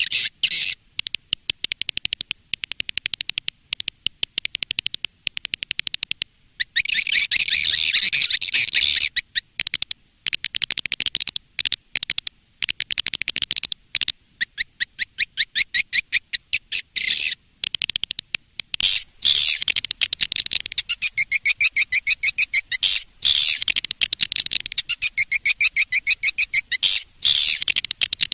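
Swiftlets twittering: fast trains of short, high chirps in bursts with brief breaks, busier and louder in the second half. This is a swiftlet call recording of the kind played to lure the birds into nesting houses.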